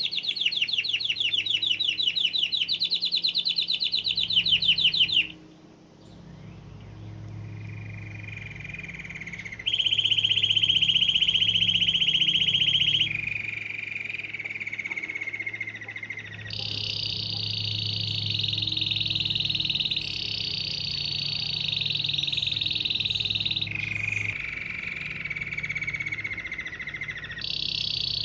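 Canary singing a long song of rapid trills, each phrase held for two to four seconds before it switches abruptly to a new pitch, with a brief pause about five seconds in. A faint low hum runs underneath.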